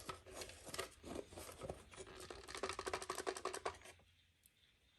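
Scratchy rustling and clicking of a robot vacuum's collected dust and debris being handled out of its bin, with a quick run of clicks about three seconds in. It stops about a second before the end.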